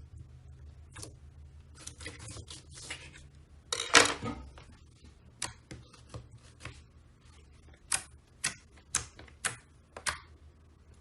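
Slime being squeezed and poked, giving sharp clicks and wet pops, with a louder crackling squelch about four seconds in and then five sharp pops, about two a second, near the end.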